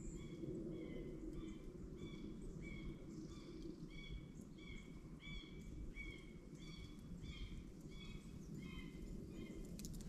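A bird calling the same short note over and over, about twice a second, faint over a steady low background rumble of the woods.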